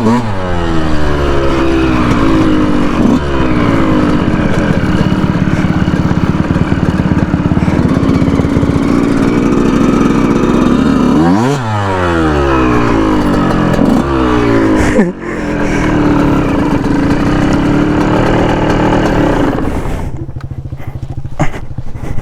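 2019 Yamaha YZ125's single-cylinder two-stroke engine running hard under way, the pitch sweeping down and back up with throttle changes and shifts about a third and two thirds of the way through. Near the end the engine note falls away.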